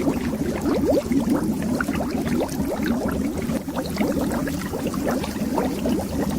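Underwater bubbles: a continuous stream of small bubbles rising and popping, each a quick upward-gliding blip, over a steady low rumble.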